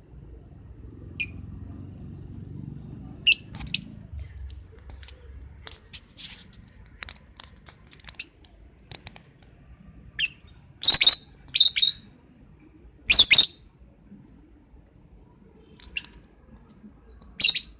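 Lovebird giving short, sharp, shrill chirps, singly and in quick pairs, scattered through with the loudest ones bunched about ten to thirteen seconds in and another near the end.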